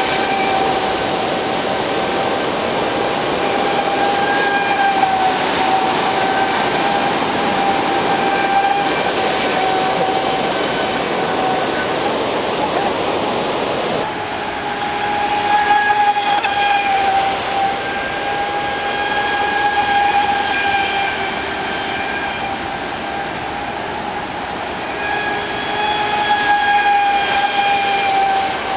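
Traxxas Spartan RC speed boat's brushless electric motor whining at a steady pitch that wavers slightly with throttle. A rushing noise underneath drops off about halfway through.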